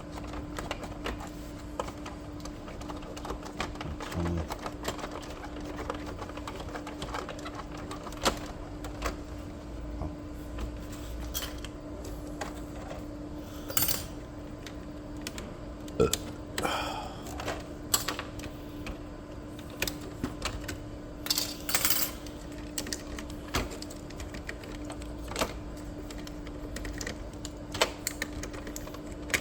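Scattered clicks, knocks and short scrapes of plastic parts being handled inside an Epson L3256 inkjet printer as its printhead is worked loose, over a steady hum.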